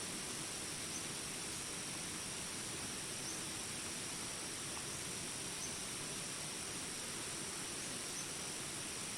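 Jungle ambience: a steady, high-pitched insect chorus over an even hiss of rain, with a faint chirp about every two and a half seconds.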